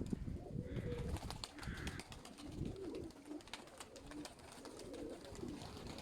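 Domestic pigeons of the sickle-winged (serpasty) breed cooing in soft, wavering calls, with scattered sharp clicks among them.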